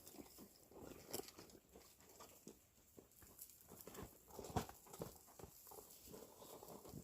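Faint rustling with small irregular clicks and knocks, the sound of rummaging through a bag for cooking things, with one sharper knock about four and a half seconds in.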